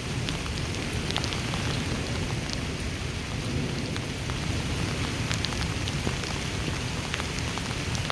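Heavy wind-driven rain in a thunderstorm: a steady downpour hiss with a low wind rumble, and many sharp ticks of raindrops striking the device's built-in microphone.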